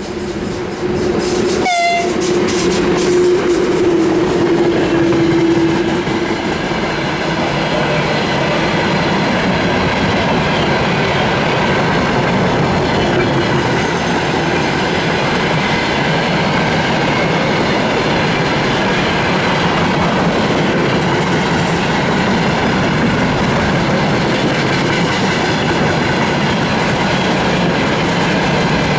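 Horn of a VL10u electric locomotive sounding once, held for about five seconds near the start. Then comes the steady rumble and clatter of a freight train's wagons rolling past.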